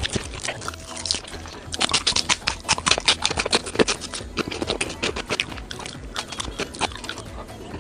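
Close-miked chewing, wet mouth sounds broken by many crisp crackling clicks.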